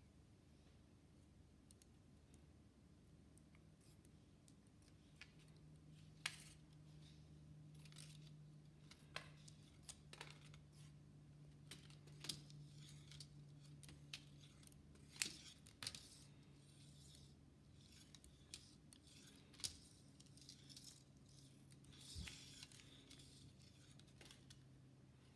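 Faint, irregular small clicks and light taps, like small objects being handled, over a low steady hum.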